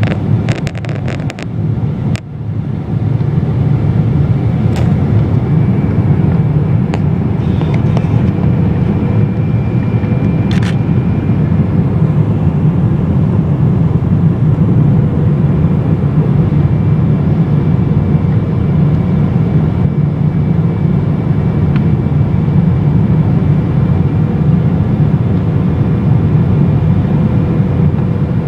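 Steady loud cabin rumble of a Boeing 777-200LR airliner, with its GE90 engines and airflow heard from inside. A few short clicks or rattles come in the first couple of seconds, and faint steady tones run under the rumble.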